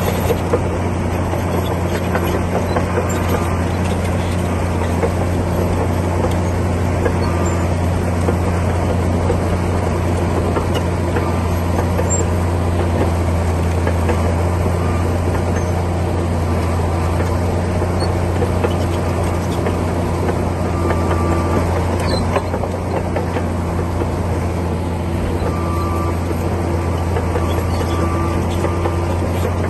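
Komatsu D60P bulldozer's diesel engine running steadily with a deep, even drone.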